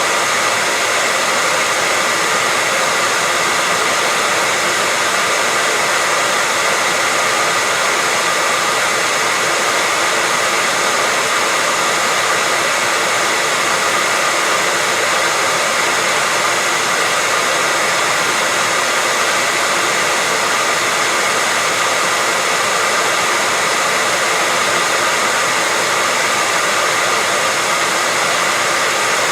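Hair dryer running steadily, a constant rushing blow of air with a faint motor whine and no change in speed, played as white noise to lull a baby to sleep.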